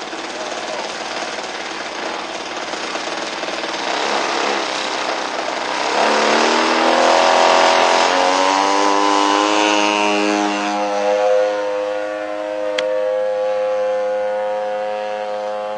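Quadra Q65 two-stroke gas engine of a model biplane running. About six seconds in its pitch rises, and it then holds steady at the higher pitch.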